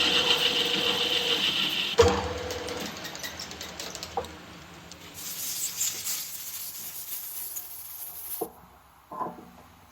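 A workshop machine's motor running with a steady hum that starts sharply again about two seconds in and then fades. A hiss follows, then a few light knocks near the end.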